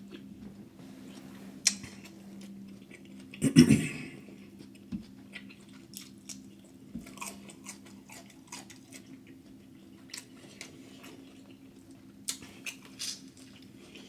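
Close-miked chewing and mouth smacking, with scattered small wet clicks and a louder bite about three and a half seconds in; a faint steady low hum runs underneath.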